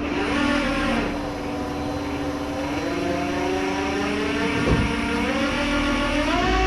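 Truck engine running under load while the winch pulls a car up onto the bed. Its pitch sinks over the first couple of seconds, holds steady, then rises near the end, with one short knock about two-thirds of the way through.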